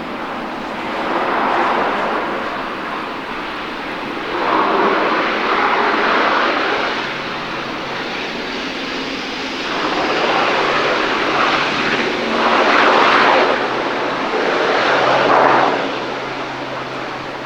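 ATR 72-500 twin turboprop engines and propellers running, with a faint low steady propeller hum. Over it, noise swells and fades about five times in strong gusty wind.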